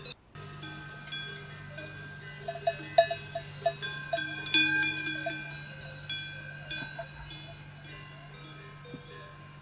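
Small metal bells ringing and clanking irregularly at several pitches, over a steady low hum.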